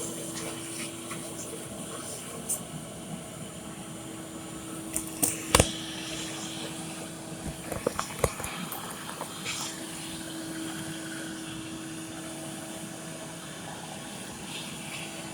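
A steady mechanical hum with one constant tone, broken by a few sharp knocks and clicks near the middle.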